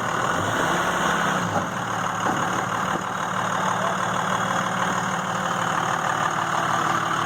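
Truck engine idling steadily, with a brief rise and fall in engine pitch about a second in.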